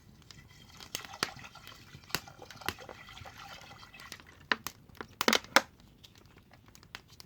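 Firewood crackling and popping in an open wood fire, irregular sharp snaps, with a louder brief burst of noise about five seconds in.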